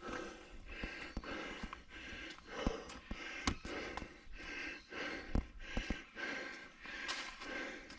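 A person breathing hard in steady, rhythmic breaths, about one a second, while walking. Footsteps on the trail add scattered sharp clicks and knocks.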